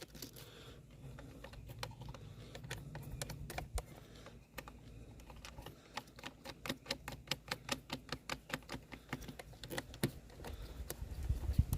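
Rapid run of light clicks from parts and a hand tool being worked in an engine bay, sparse at first and then coming several a second for a few seconds in the middle.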